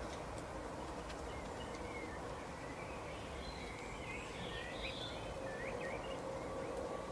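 Small birds chirping, with short twittering notes that come thickest in the middle, over a steady outdoor background hiss and a faint steady hum.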